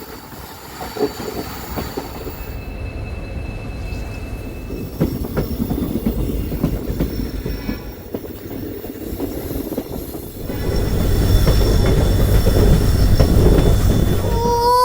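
Passenger train running on rails: wheels rumbling and clicking over the track, with a thin wheel squeal briefly a few seconds in. The running noise grows louder about ten seconds in.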